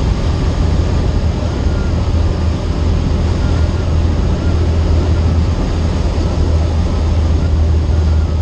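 Steady, loud drone of a Cessna 152's four-cylinder Lycoming engine and propeller running at a constant setting.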